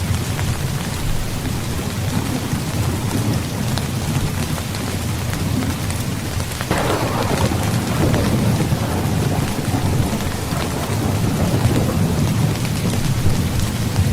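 Steady heavy rain with low rolling thunder. About halfway through, a sharper thunderclap breaks in and trails off into a long rumble.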